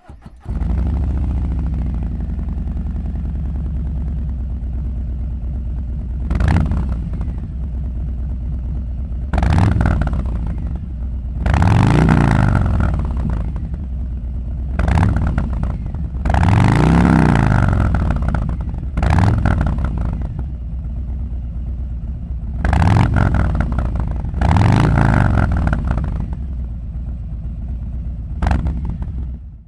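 Harley-Davidson Low Rider S V-twin through a Zard full racing exhaust system, idling with a deep lumpy beat and revved about ten times. Some revs are short blips, others longer, each rising and falling in pitch.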